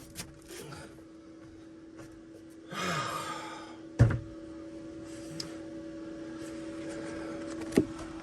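A steady hum, with a short burst of rough noise about three seconds in, a single sharp knock about four seconds in, and a smaller click near the end.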